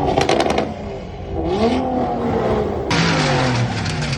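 Car engine revving, its pitch rising and falling in repeated pulls, with a few sharp cracks right at the start.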